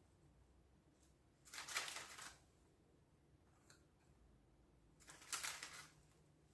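Two short, quiet rustles about three and a half seconds apart as tennis biscuits are handled and laid into the pan.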